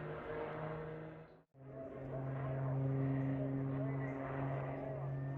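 Steady drone of a display aircraft's engine, cut off abruptly about a second and a half in and picking up again straight after.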